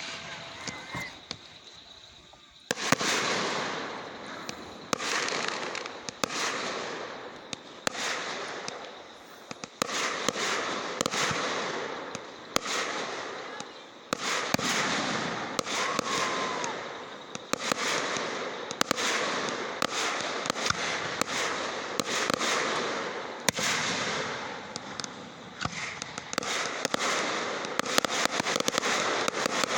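Fireworks going off in quick succession: a sharp bang about every second or so, each followed by a fading crackle, starting about three seconds in.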